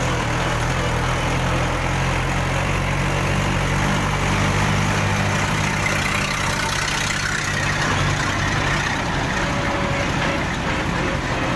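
Diesel tractor engine running steadily under load while hauling a heavy trailer along a road, with a steady low engine drone over road noise.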